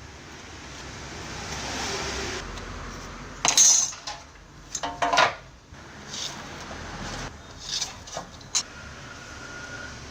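Hard objects, most likely metal fan parts, being handled and set down. A loud knock about a third of the way in, a cluster of clanks a second later, then a few lighter clinks.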